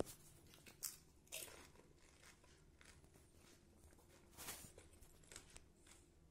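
Faint chewing of phuchka, the crisp fried puri shell filled with mashed potato, with a few short soft crunches about a second in, at a second and a half, and a longer one near four and a half seconds.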